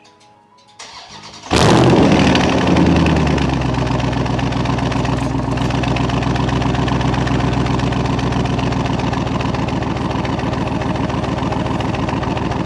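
2022 Dodge Charger Scat Pack's 6.4-litre HEMI V8, with its mid mufflers deleted, remote-started while hot. It cranks briefly, catches about a second and a half in with a loud flare of revs, and within two seconds settles into a steady idle.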